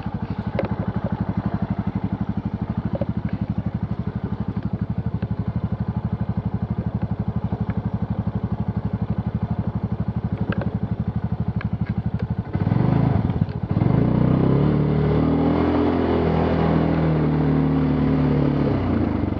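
Off-road vehicle's engine in low-range gear, running at low revs with a steady pulsing beat, then revved up about twelve and a half seconds in and held at higher, varying revs as it pulls through mud without wheelspin.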